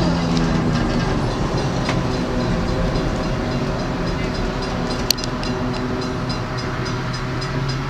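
A passenger train rolling along the track: a steady rumble with regular light clicking from the wheels on the rails, and one sharp click about five seconds in.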